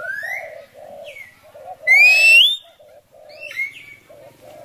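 A pet bird whistling several rising notes, the loudest a strong upward-sliding whistle about two seconds in. Low coos repeat evenly throughout, two or three a second.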